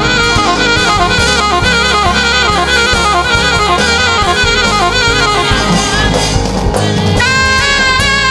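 Saxophone playing a quick, flowing melody over a live drum kit, in a gospel worship style, settling into longer held notes near the end.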